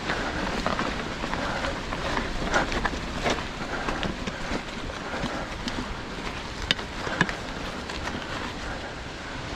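Trek Fuel EX 7 mountain bike being ridden on a wet trail, with steady wind and trail noise and a few sharp knocks and clicks from the bike, the two loudest in quick succession past the middle.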